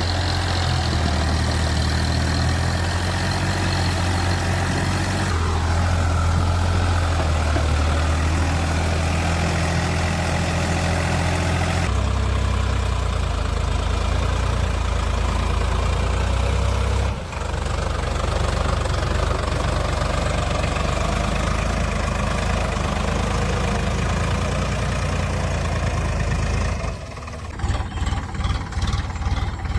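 Tractor engine running steadily with a deep hum. It changes abruptly a few times, and near the end it turns uneven and choppy.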